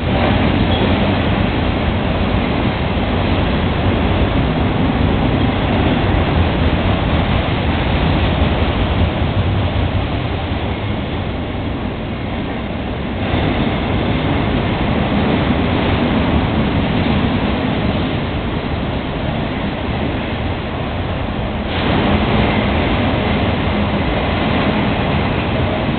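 Long freight train rolling past, its cars' wheels rumbling and rattling on the rails in a steady, loud noise. The level steps up abruptly about halfway through and again near the end.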